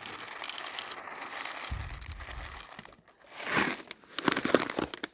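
Electric coffee grinder crushing coffee beans, running steadily and stopping about three seconds in. It is followed by a brief rustle and a few light knocks.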